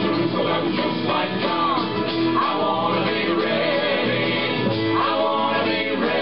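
Live acoustic band music: guitar-led folk/country playing with singing voices.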